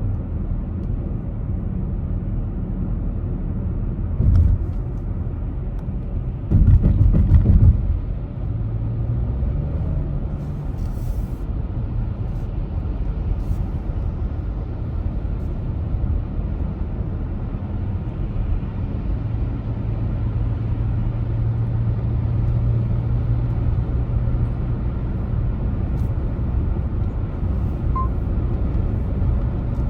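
Car driving along a road: a steady low rumble of engine and tyre noise. There is a short thump about four seconds in and a louder rumbling burst of about a second near seven seconds.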